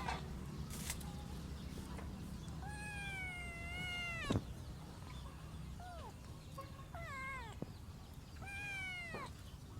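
Kitten meowing: one long meow about three seconds in, then several shorter meows. A sharp click right after the long meow, over a steady low rumble.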